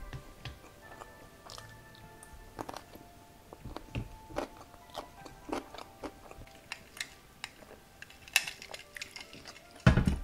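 Close-miked crunchy chewing of Korean pickled radish (chicken-mu) cubes, many short wet crunches, over soft background music. A loud knock comes near the end.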